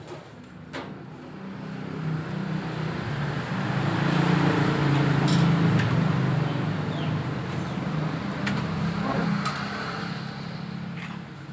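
A low motor hum that swells over a few seconds and then fades again, with a few light clicks.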